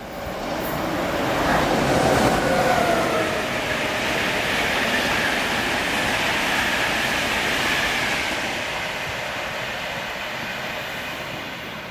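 LNER express train passing through the station at speed, a rushing rumble of wheels on rails. It builds quickly to its loudest about two seconds in, holds, then eases away over the last few seconds.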